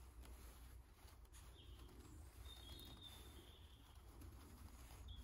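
Near silence: faint woodland ambience with a few quiet, high whistled bird calls.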